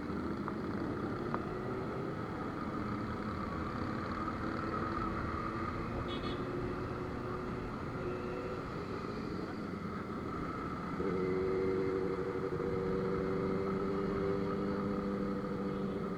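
Motorcycle engine running under way with road noise, its note steady and getting louder about eleven seconds in.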